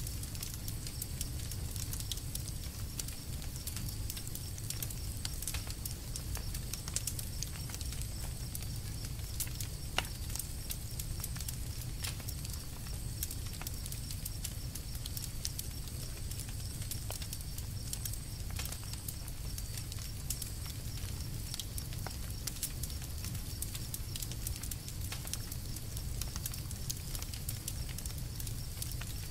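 Campfire crackling: irregular sharp pops and snaps over a low, steady rumble of burning wood, with two louder pops about 7 and 10 seconds in.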